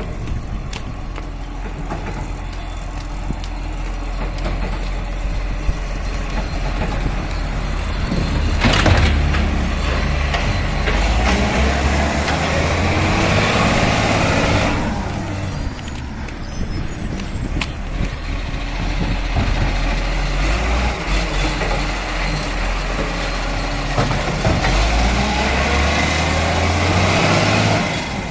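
Garbage truck's diesel engine running, growing louder twice as it works or pulls away, with a sudden sharp sound about nine seconds in.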